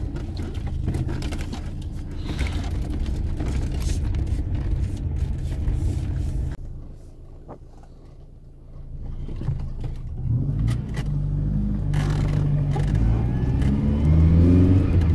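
Car engine heard from inside the cabin, running and pulling the car along, dropping to a quiet idle about six and a half seconds in, then revving up again with rising pitch as the car accelerates near the end.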